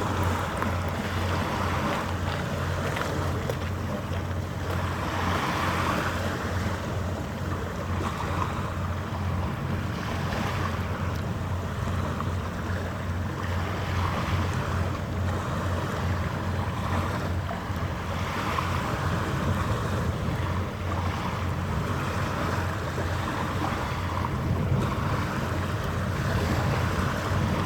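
Steady low hum of ship engines under rushing wind on the microphone and the wash of water, the wind and water noise swelling and easing every few seconds.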